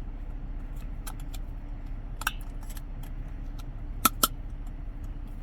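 Light clicks and taps of small hand tools and plastic parts being handled, a few scattered ticks with a close pair near the end, over a low steady hum.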